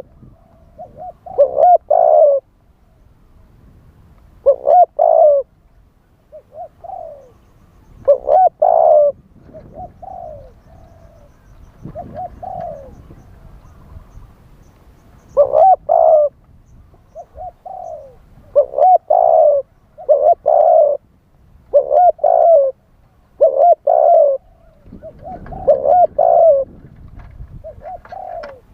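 Spotted dove cooing in repeated short phrases of a few coos each, with pauses of a second or more between them and a longer lull midway. This is the wild-type call used to lure spotted doves to a decoy.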